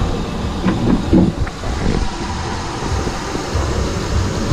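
Honda Pilot's V6 engine idling with its accessory drive belt turning and squeaking. The owner traces the squeak to the belt and alternator pulley, and it shows up after rain.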